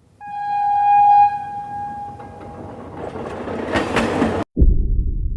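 A train horn sounds one long blast, then the rushing noise of a train builds up. About four and a half seconds in it cuts off abruptly into a loud, deep boom that rumbles and fades.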